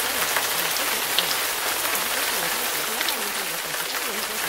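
Steady recorded rain with scattered drop ticks. A faint low voice wavers underneath, reciting subliminal affirmations.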